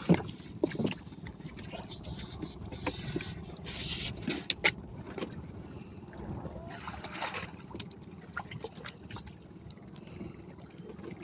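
Water splashing and dripping around a small fishing boat, with scattered sharp knocks and clicks.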